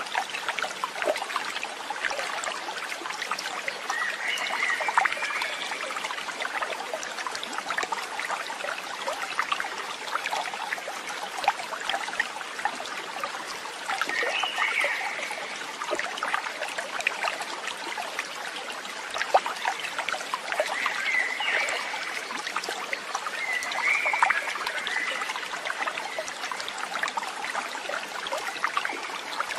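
Water trickling and splashing steadily, like a small stream over stones, with a short high chirp four times.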